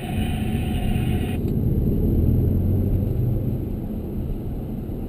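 Engine and road noise of a 2013 Audi S7's twin-turbo V8 heard inside the cabin, a low rumble that swells about two seconds in and then eases off. A background hiss cuts off about a second and a half in.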